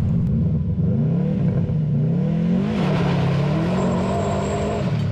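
Classic Mini's engine accelerating hard through its rally exhaust. The engine note climbs, drops sharply about two and a half seconds in as a gear is changed, then climbs again and drops near the end.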